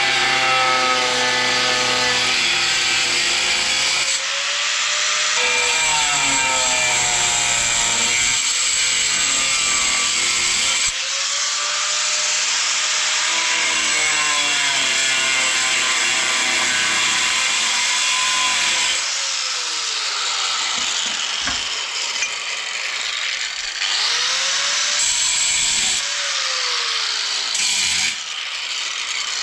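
Loud machinery or power tool running, its whining pitch sliding up and down, with the sound changing every few seconds.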